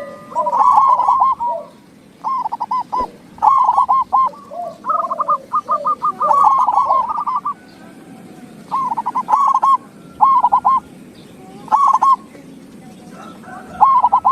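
Zebra doves (perkutut) singing: about eight phrases of rapid, staccato cooing notes, each separated by a short pause. The longest phrase runs for nearly three seconds in the middle, and a lower second voice joins in during the first half.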